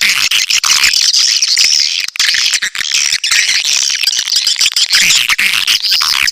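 Recorded swiftlet calls played as a lure: dense, unbroken twittering chirps with rapid clicking running through them, the calling sound used to draw edible-nest swiftlets into a nesting house.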